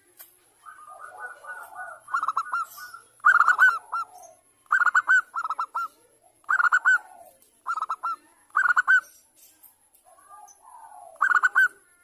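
Zebra dove (perkutut) cooing: about eight short bursts of quick, clipped notes, with softer chatter before and between them.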